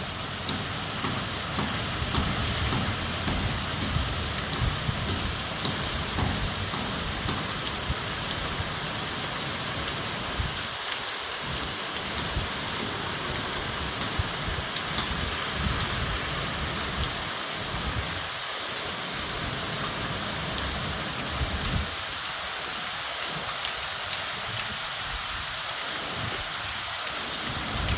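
Steady rain falling on surfaces: an even hiss with scattered ticks of single drops, over an uneven low rumble that fades now and then.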